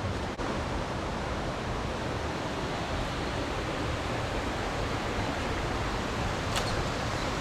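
Steady rush of flowing water in a mountain stream, an even hiss that dips for an instant just after the start.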